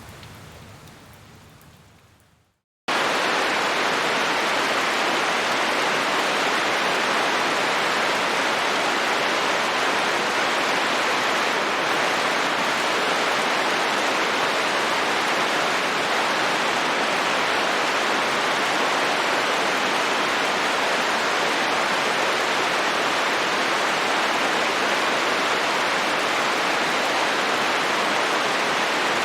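Rain fading away over the first couple of seconds to a moment of silence. About three seconds in, a louder, steady, even rain hiss starts abruptly and holds without change.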